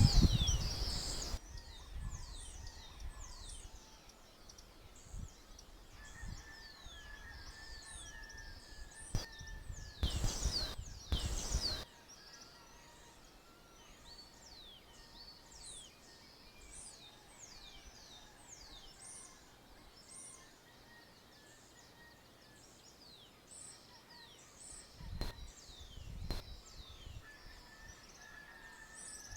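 Dawn chorus of small birds chirping in the countryside: many short, quickly falling chirps overlapping throughout. There are low rumbling bursts at the start, about ten seconds in and again near the end.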